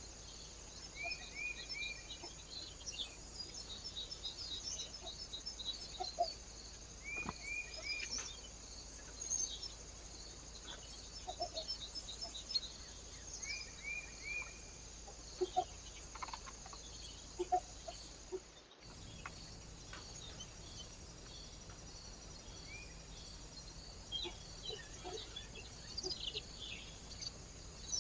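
Small birds chirping and calling, with a short three-note falling call repeated every several seconds and a few faint knocks. The sound cuts out briefly about two-thirds through, then the chirping resumes.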